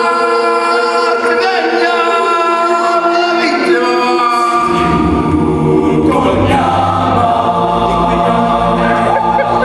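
An a cappella vocal group singing held chords in close harmony. A low bass part comes in about halfway through.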